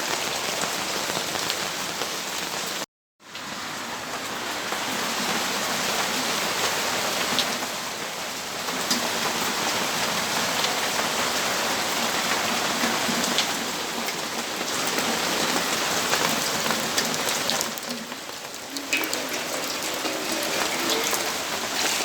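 Steady rain falling, an even wash of drops, with a split-second gap of complete silence about three seconds in.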